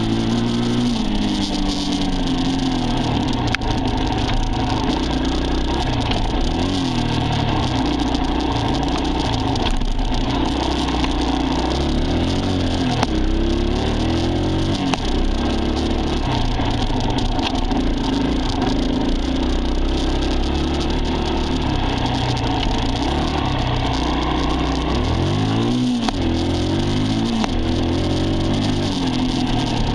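Dirt bike engine running under load, its revs climbing and dropping again and again as it is ridden.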